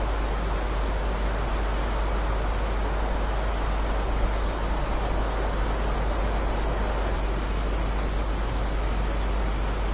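Heavy rain falling steadily as an even hiss, with a deep low rumble underneath.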